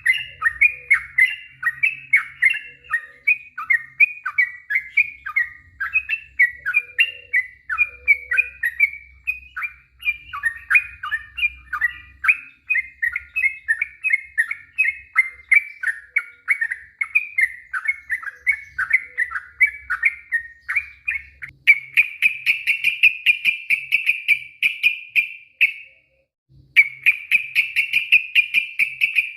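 Yellow-vented bulbul (trucuk) singing a long unbroken run of quick chirping phrases, a few a second. About three-quarters of the way through it shifts into a faster, denser trill, breaks off for under a second, then carries on.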